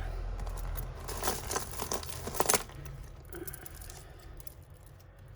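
Plastic bag crinkling and rustling as costume jewellery is handled, with small clicks of beads and metal pieces. The handling is loudest for the first two and a half seconds, then fainter.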